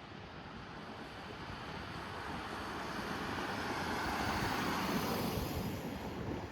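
Jet airliner passing by, its engine noise swelling steadily to a peak about five seconds in and then beginning to ease.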